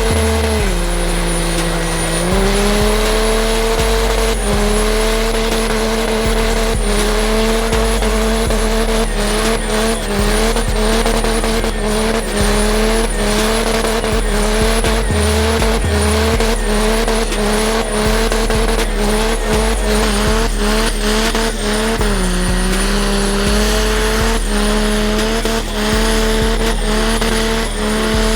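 Truck engine held at high revs with its tires spinning and squealing, as in a burnout. The engine pitch dips briefly near the start and again about three-quarters of the way through, with rapid crackles throughout.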